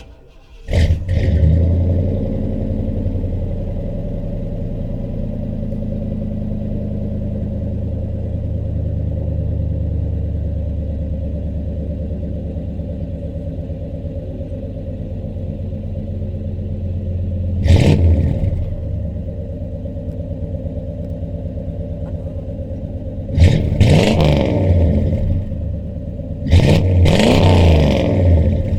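1993 Chevrolet Caprice's V8 engine on a cold start: it catches about a second in and runs at a fast cold idle that slowly settles. The throttle is blipped three times near the end, each a short rev that rises and falls back to idle.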